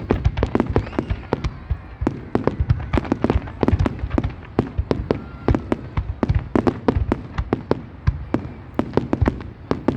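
Fireworks display: a rapid, continuous barrage of sharp bangs and cracks, several a second, over a low rumble.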